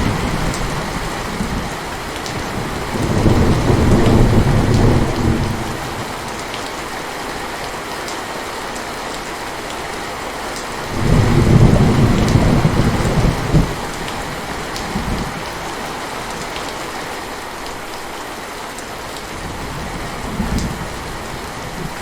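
Steady heavy rain falling, with thunder rumbling twice: once about three seconds in and again about eleven seconds in, each rumble lasting two to three seconds, with fainter low rumbles later.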